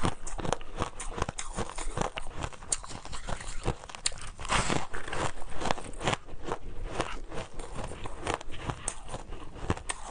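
Someone biting and chewing crunchy shaved ice, a steady run of crisp crackles with a thicker burst of crunching about halfway through.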